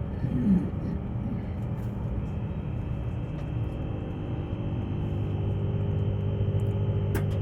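Steady running rumble and hum of the Tilt Train heard inside the carriage, growing a little louder about five seconds in, with a short click near the end.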